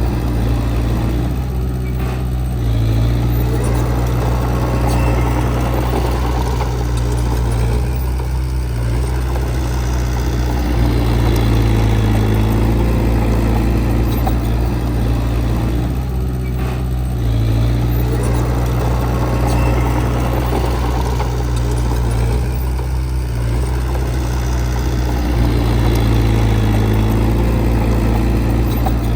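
Heavy diesel engine of earthmoving equipment running steadily, its load rising and falling every several seconds.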